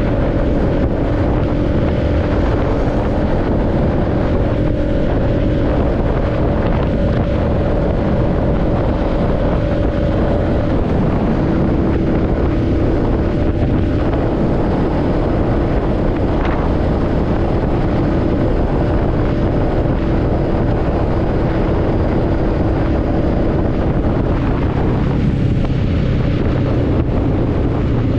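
Motorcycle engine running at a steady cruising speed, its note almost constant and stepping up slightly about a third of the way in, under heavy wind rush on the microphone.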